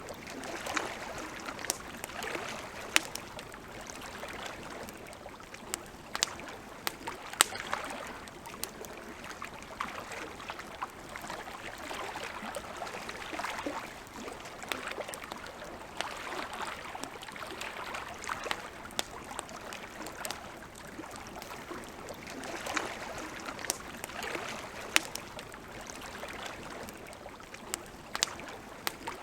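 Wood campfire crackling, with sharp pops at irregular intervals over a steady rushing hiss.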